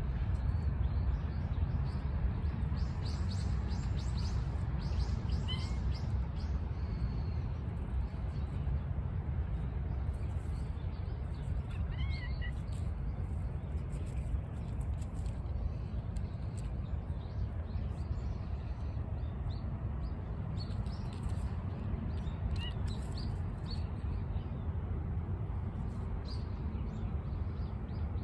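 Small birds chirping now and then in short high calls, in bunches, over a steady low outdoor rumble.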